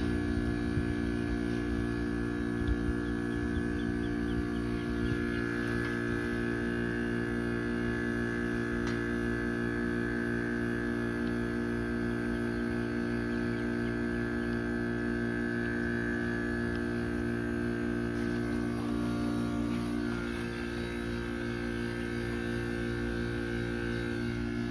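Trane XR13 heat pump outdoor unit running in defrost mode: a steady hum with several held tones, shifting slightly about twenty seconds in.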